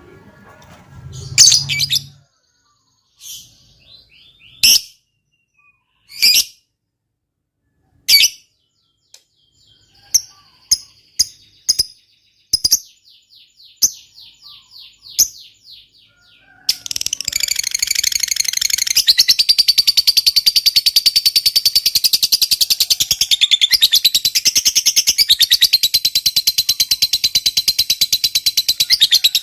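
Lovebird giving short, sharp, scattered chirps, then about 17 seconds in breaking into a long, continuous, very rapid chatter, the prized 'ngekek panjang' of a fighter lovebird.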